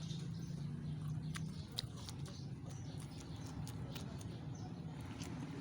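A person chewing raw leafy greens, with irregular crisp crunches, over a low steady hum.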